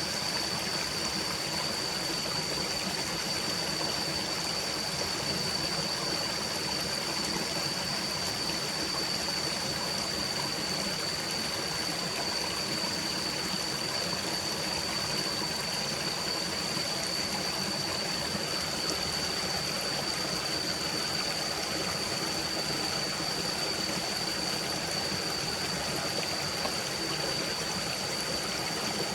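A stream flowing steadily, an even rush of running water, with a constant high-pitched tone running above it.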